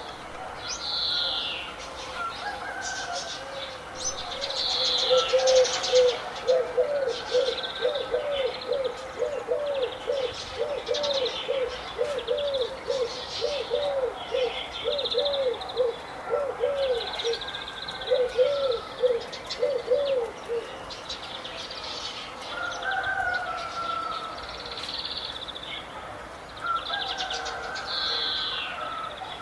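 Several birds chirping and singing with high, quick notes, overlapping one another. A lower call joins them, short arched notes repeated about twice a second, starting about five seconds in and stopping about twenty seconds in.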